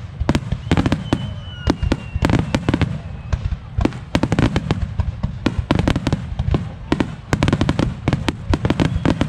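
Fireworks display in a rapid barrage: many sharp bangs several a second over a continuous low rumble of bursts, with a thin high whistle about a second in.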